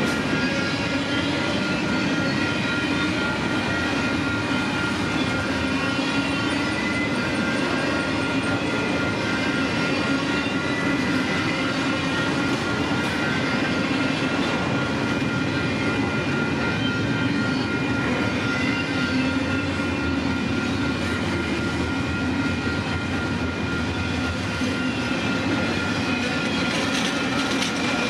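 Freight train's cars rolling past: a steady, even rumble of steel wheels on rail, with a thin constant ringing tone above it.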